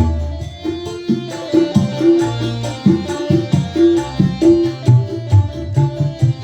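Dangdut music played on a Yamaha PSR S770 arranger keyboard with sampled sounds: a steady hand-drum rhythm like tabla or kendang under a held melody.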